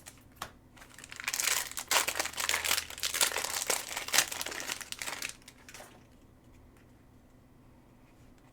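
Foil wrapper of a trading-card pack crinkling as it is handled and opened, starting about a second in and stopping at about six seconds.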